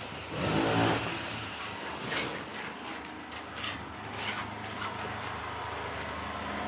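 Footsteps scuffing across a gritty bare concrete floor, a series of short, irregular steps over a steady background hum.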